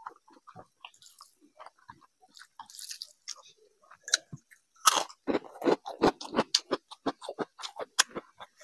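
Close-miked chewing with the mouth: soft, wet sounds of rice and curry being mixed by hand and chewed, then from about halfway in loud, crisp crunches about three a second as a piece of fried papad is bitten and chewed.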